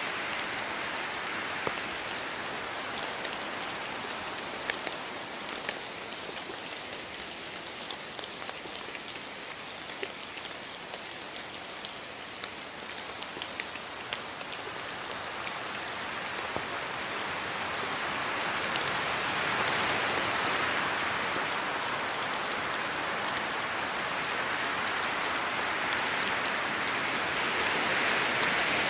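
Steady rain falling on a house yard, with many individual drops pattering; it grows heavier past the middle.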